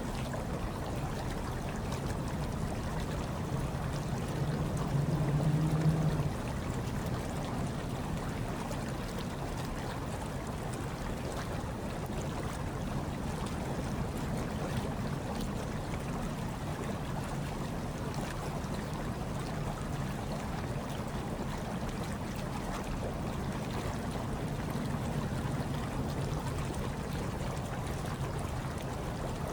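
Hot tub water churning steadily, with a low hum underneath; it swells louder for about two seconds around five seconds in.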